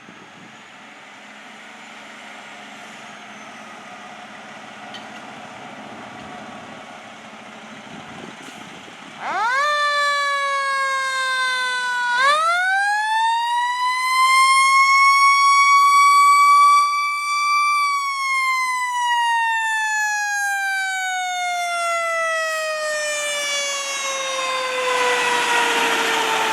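Emergency-vehicle siren on a responding fire truck or ambulance, starting about nine seconds in over low street noise. It winds up quickly, dips briefly, winds up again to a high held whine, then slowly falls in pitch as it coasts down.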